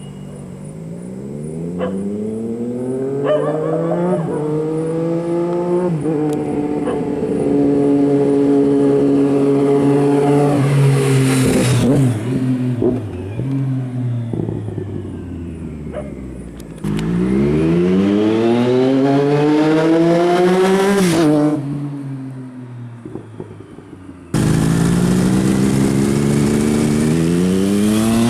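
Triumph Daytona 675R's three-cylinder engine through an SC Project exhaust, accelerating hard through the gears: the pitch climbs and drops back at each upshift as the bike passes and fades away, twice. A sudden cut near the end brings in another run already accelerating.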